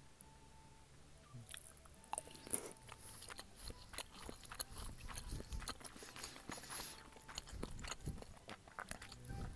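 Close-miked chewing of a mouthful of soft scrambled eggs: irregular wet mouth clicks and smacks that start about a second and a half in.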